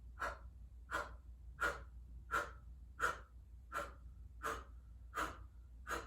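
Kapalabhati breathing done through the mouth: nine short, sharp exhales blown out as if at a candle, about one every 0.7 seconds, with the belly snapping back on each one and the inhale passive in between.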